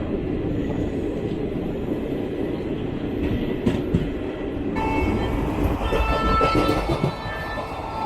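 Steady low rumble of a standing passenger train with end-on-generation power cars, heard from the station platform; about five seconds in, several high steady tones join the rumble.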